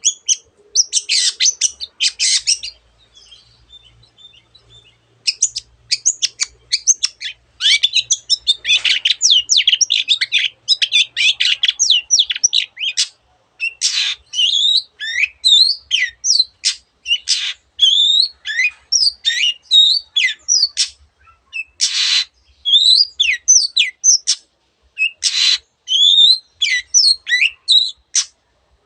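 Long-tailed shrike singing a fast, varied song of chattering and sweeping whistled notes, mimicking other birds, with a short lull early on and two harsh rasping calls in the latter half.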